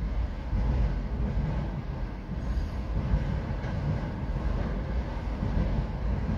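A freight train of autorack cars rolling past, a steady rumble of wheels on the rails.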